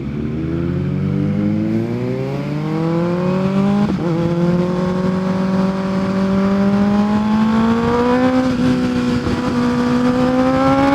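Kawasaki ZX-6R 636 sportbike's inline-four engine accelerating. The note climbs steadily for about four seconds, breaks briefly as it shifts up, then rises more slowly and levels off.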